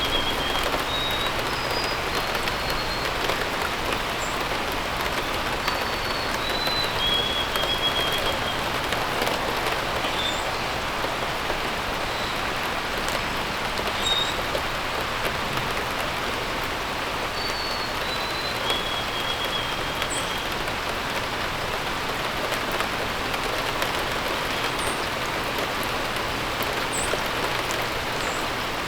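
Steady rain falling, with birds calling now and then in short, high whistled notes.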